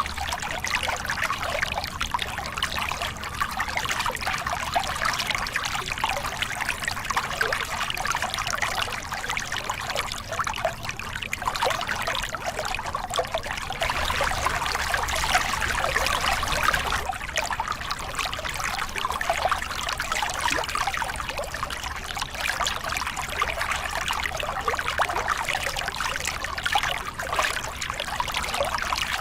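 Small cascade on a forest river: water pouring and splashing over rocks in a steady, dense rush with fine splashing detail and gentle swells.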